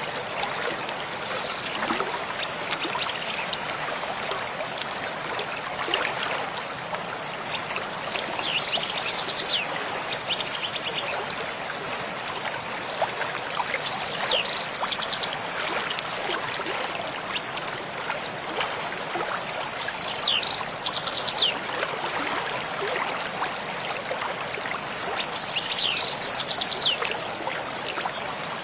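Mountain stream flowing steadily, with a songbird singing the same short phrase four times, about every six seconds: a quick falling note followed by a rapid high trill.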